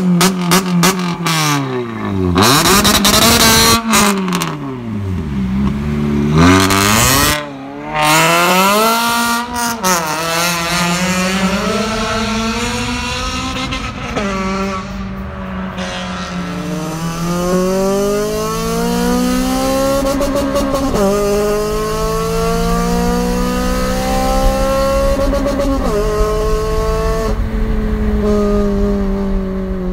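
Honda Civic Type R (FN2) 2.0-litre four-cylinder engine driven hard, revs swinging up and down quickly with a few sharp cracks in the first ten seconds. Later it pulls long, slow climbs in revs, each cut by a sharp drop, twice.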